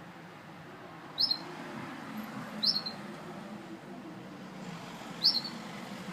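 Gloster canary giving three short, high chirps spread over a few seconds, over a low steady background hum.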